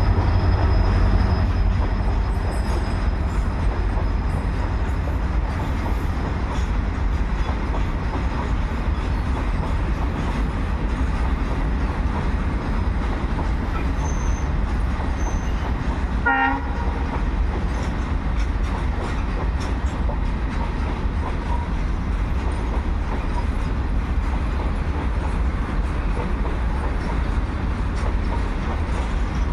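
Freight train of goods wagons rolling past, a steady heavy rumble of wheels on the rails.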